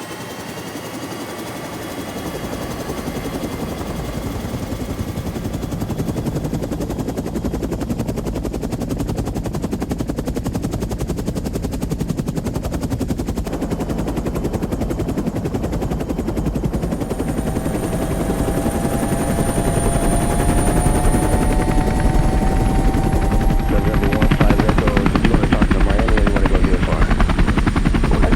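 Helicopter rotor sound: a steady, fast chopping that grows steadily louder.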